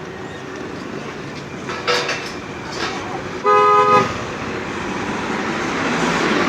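A vehicle horn gives one short honk of about half a second, over steady street traffic noise.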